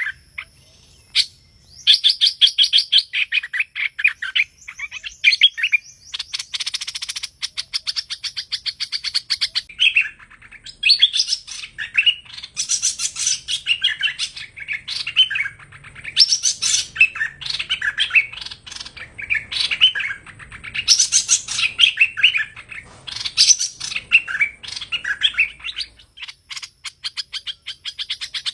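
Hoành hoạch bird singing: long run-on strings of varied chirps, whistles and a fast rattling trill, broken by short pauses. This is the bird's full song as it is played to lure wild birds into a trap.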